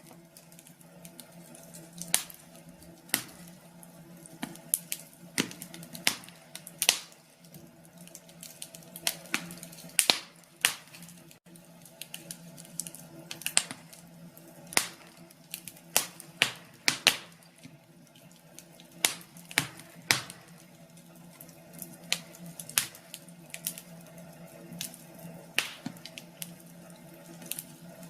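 Wood fire crackling, with irregular sharp pops and snaps of burning logs, a few every second, over a faint low steady hum.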